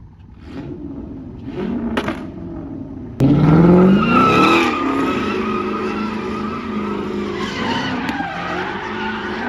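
A car at full revs spinning its tyres in a long squeal, as in a burnout or donuts. A few short revs come first, then about three seconds in the engine jumps loud and rises in pitch, and the tyres squeal steadily from there on.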